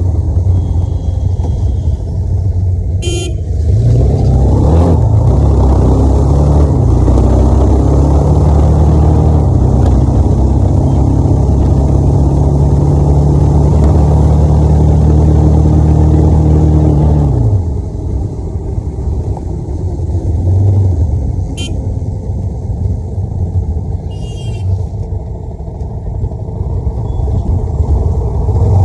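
Motorcycle engine running under way with wind rushing on the microphone. The engine note rises about four seconds in, holds steady, then drops away about seventeen seconds in. Short horn toots come near the start and twice near the end.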